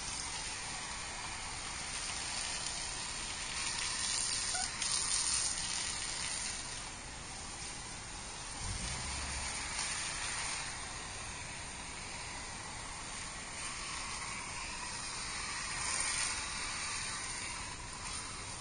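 Garden hose spray nozzle spraying water onto a car's body: a steady hiss that swells and eases as the spray moves.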